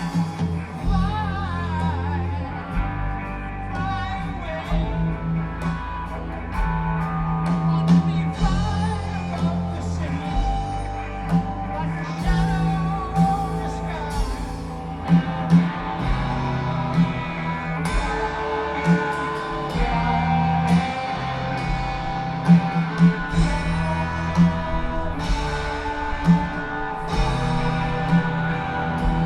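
Live rock band: electric guitars, bass and drums playing a slow, heavy song, with a voice singing over it, heard in a large venue.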